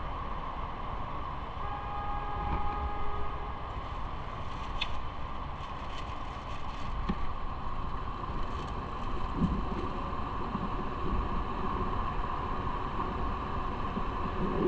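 Steady road and traffic noise heard while riding through city streets. A short pitched tone sounds about two seconds in, and scattered clicks follow in the middle.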